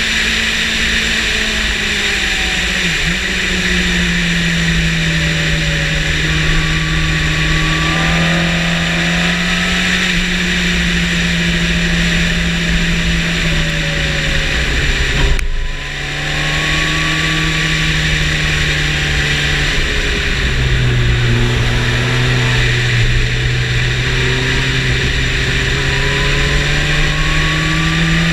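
Yamaha motorcycle engine pulling hard at high revs, its pitch climbing and falling as it is run through the gears, with a brief sharp drop about halfway through and a lower step a few seconds later, under heavy wind rush on the microphone.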